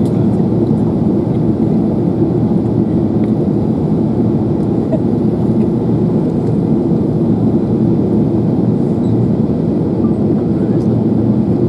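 Steady cabin roar of an Airbus A380 on its descent: engine and airflow noise heard from inside the passenger cabin, a constant low rumble.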